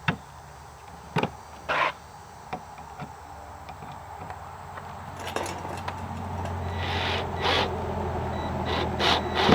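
Knocks and scrapes of a work table being moved, a few sharp knocks early, then scraping bursts near the end, over a low steady hum that builds from about halfway through.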